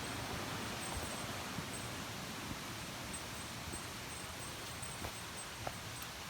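Mountain stream rushing over rocks, an even hiss that eases a little over the few seconds, with scattered light knocks and clicks over it.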